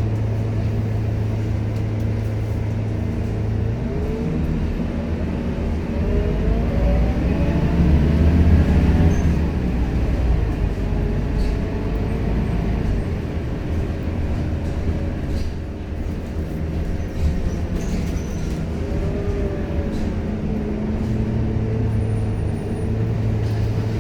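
Scania K230UB bus's diesel engine humming steadily, then pulling away with its pitch rising through gear changes from about four seconds in. It settles back to a steady low hum near the end.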